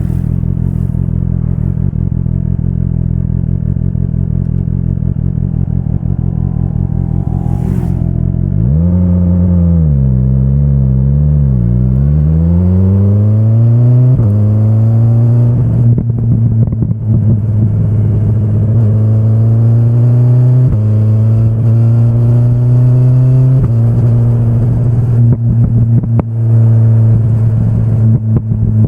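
2025 BMW S1000RR inline-four sport bike engine heard from the rider's seat. It runs steadily at low revs, then from about eight seconds in the throttle opens: the revs waver, climb, and then rise and drop back several times as it pulls through the gears.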